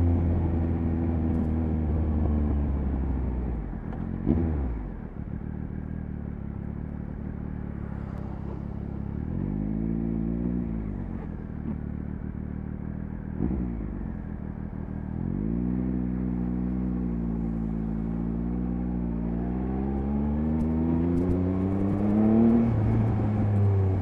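Triumph Speed Triple 1050 RS inline three-cylinder engine heard from the bike while riding. The engine note drops about four seconds in and rises and falls around ten seconds. From about sixteen seconds it climbs steadily, with a short change near the end.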